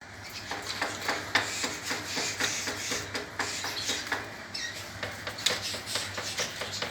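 Caged birds hopping and fluttering about their cage, making irregular clicks and scratches with a few short chirps about two-thirds of the way through, over a steady low hum.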